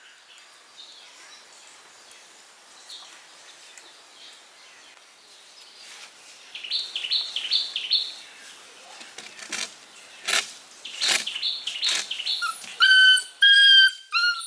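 Puppy whining and yelping in high-pitched cries, quick short ones first and then longer, louder whines near the end, with a few sharp knocks in between.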